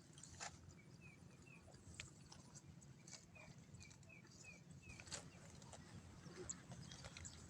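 Quiet outdoor ambience: faint short high chirps from a small animal, in a run about a second in and again a few seconds later, with scattered faint clicks.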